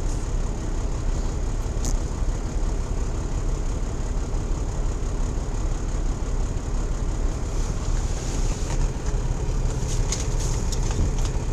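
Peterbilt 379 truck's diesel engine running steadily with a low rumble, heard from inside the cab, with a few faint clicks near the end.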